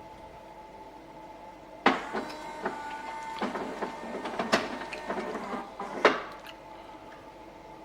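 Melitta Latticia OT F300-101 fully automatic coffee machine at work: a motor whirs with clicks and knocks for about four seconds, starting sharply about two seconds in and stopping sharply, over a steady low hum.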